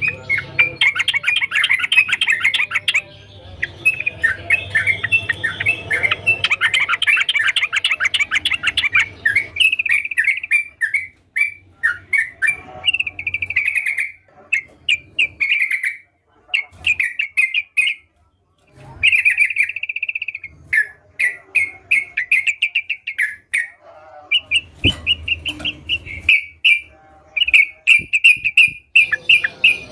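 Yellow-vented bulbul (trucukan) singing a fast, bubbly chatter of notes: a dense unbroken run for about the first ten seconds, then shorter repeated phrases with brief pauses between them.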